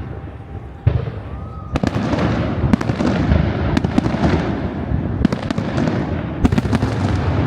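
Fireworks display: aerial shells bursting. A couple of sharp bangs in the first two seconds give way to a dense run of booms and crackling.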